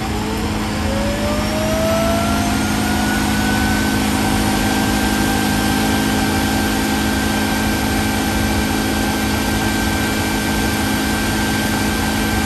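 Shark robot vacuum's self-emptying base running its suction motor to empty the robot's dust bin. It is loud: a whine that rises in pitch over the first few seconds as the motor spins up, then holds steady over a rushing air noise.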